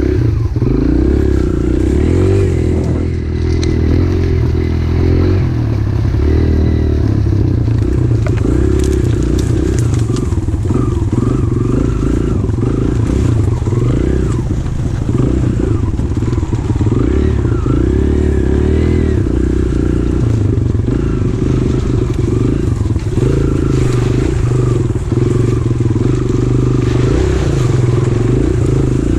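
Pit bike engine running under riding load, its revs rising and falling continually as the throttle is worked.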